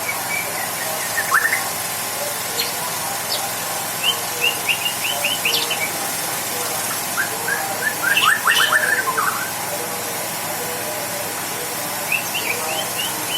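White-rumped shama (murai batu) singing: phrases of quick, repeated chirping notes, with two runs of rapid notes in the middle, over a steady background hiss.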